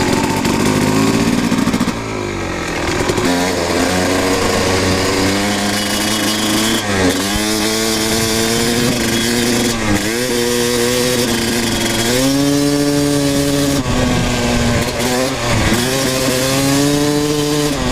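Kawasaki KX250 dirt bike engine pulling hard at high revs. The pitch dips and climbs again several times, about 3, 7, 10 and 12 seconds in, as it shifts or the throttle is rolled off and back on. A steady rush of wind noise runs under it.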